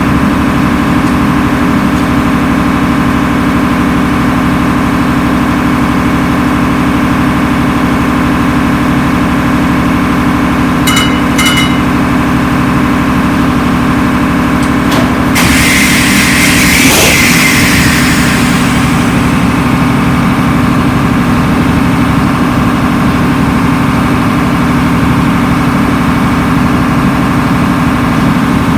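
Atlas Imperial marine diesel engine running steadily at constant speed. Partway through there are a few short clicks, then a loud hiss lasting about three seconds.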